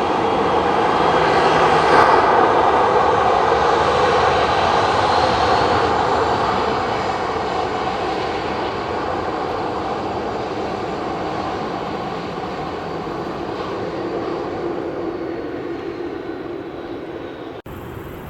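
Jet engines of a Boeing 787-9 airliner passing by, a steady rushing roar with a faint high whine. It grows to its loudest about two seconds in, then slowly fades.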